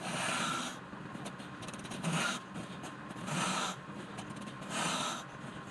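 Wood being scraped or rasped with a hand tool in repeated strokes: four strokes, each about half a second long, roughly one every second and a half.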